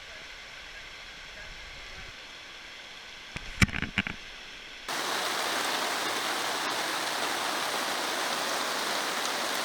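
Quiet forest background with a short cluster of sharp knocks about three and a half seconds in. About five seconds in it cuts abruptly to the steady, louder hiss of rain falling.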